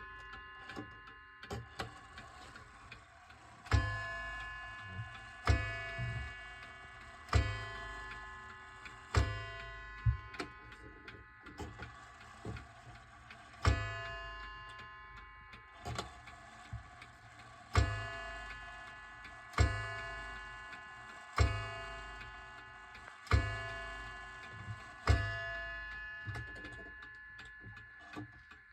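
A 1920s Seth Thomas beehive mantel clock striking, about a dozen blows mostly a little under two seconds apart. Each blow rings on and fades, with the clock's ticking heard between them.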